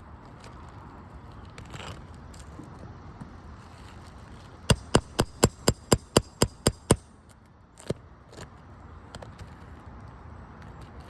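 Roofing hammer striking a nail-removal tool about ten times in quick succession, about four blows a second, then once more a second later: driving the tool to free a roofing nail from an asphalt shingle.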